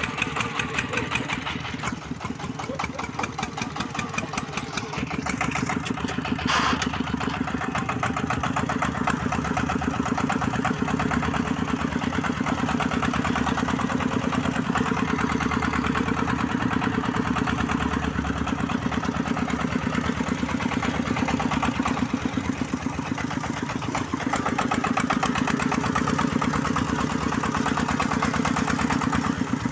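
Single-cylinder diesel engine of a công nông, a Vietnamese two-axle-drive farm truck, running steadily with rapid, even chugging. A short sharp click about six and a half seconds in.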